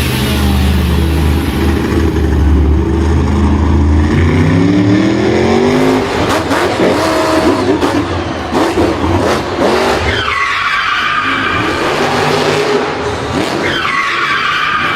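Car engine revving, rising and falling in pitch, then tyres squealing twice later on.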